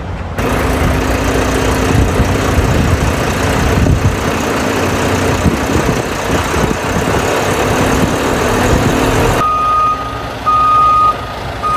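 Semi truck running, a steady engine and road noise. About nine and a half seconds in, it gives way abruptly to a truck's reversing alarm beeping about once a second, a sign the truck is backing up.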